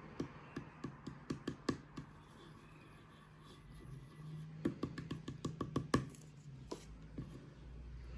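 A quick run of light taps and clicks, then a short pause, then a second run of taps about halfway through.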